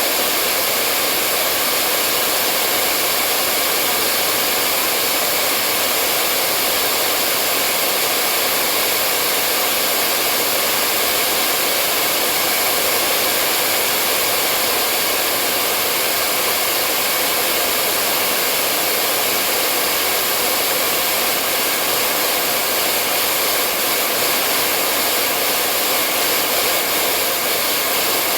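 Hair dryer running steadily: a constant blowing rush, strongest in the upper range, with a faint motor hum and no change in speed.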